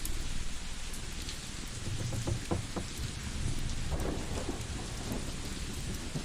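Layered cozy ambience: a steady rain-like hiss over a low rumble, with scattered crackling pops from a wood fire, a cluster about two seconds in and another near four seconds.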